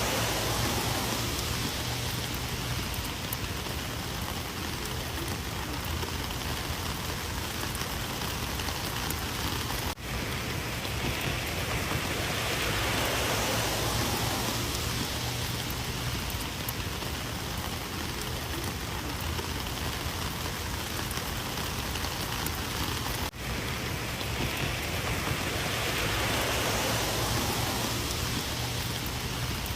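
Heavy rain falling in a steady hiss that swells and eases every several seconds, with two brief dips in level.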